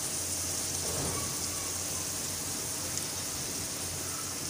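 Beef liver pieces frying in hot oil in an aluminium karahi: a steady, even sizzle as a spatula stirs them.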